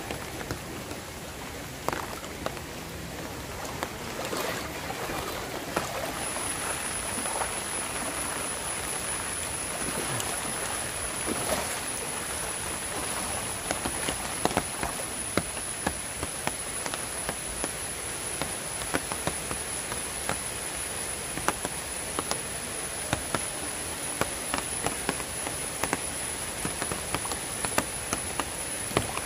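Heavy monsoon rain falling steadily on floodwater and foliage, a dense hiss with many small drop patters. A thin, steady high-pitched whine comes in about six seconds in and keeps on.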